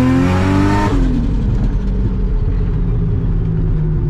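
Nissan Stagea's engine pulling under hard acceleration, its note rising steadily, then dropping suddenly about a second in as the revs fall away. It settles into a steady lower drone with road noise.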